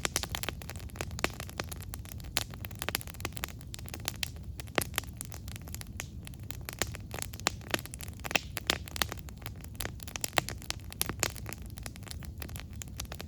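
Wood fire crackling, with frequent sharp irregular pops and snaps over a steady low rumble of flames.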